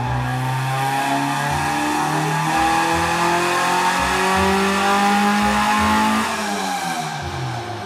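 Honda Integra's stock B20 VTEC four-cylinder making a dyno pull on the rollers: the engine note climbs steadily in pitch for about six seconds, then the throttle is lifted and the revs fall away.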